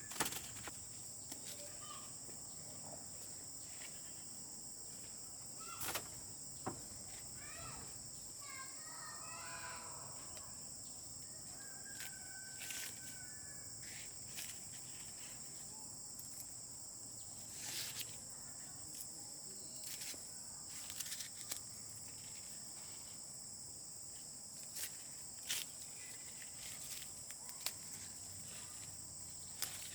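Insects droning steadily at a high pitch, with scattered short clicks and knocks throughout.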